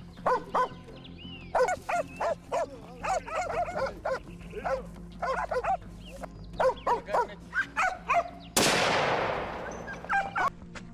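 Hunting dogs barking in a run of short, repeated barks. About eight and a half seconds in comes a single loud gunshot whose report fades over a second or so, followed by a couple more barks.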